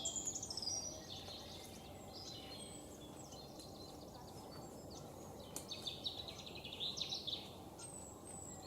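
Small songbirds singing in quick trilled, chirping phrases over a steady low background noise: one phrase at the start, a short one about two seconds in, and a longer one from about five and a half to seven and a half seconds.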